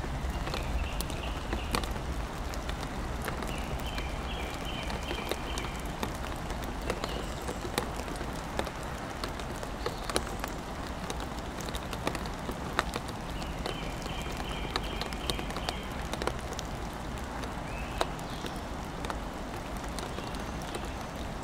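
Steady rain with scattered single drops knocking sharply on a wooden play tunnel. A bird sings a short run of high stepped notes several times in the background.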